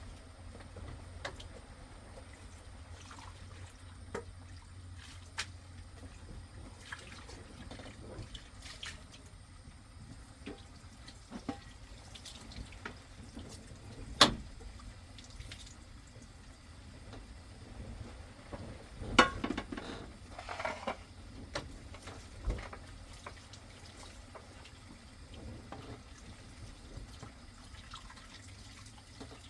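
Water dripping and trickling, with scattered light taps and two sharper knocks, about fourteen and nineteen seconds in.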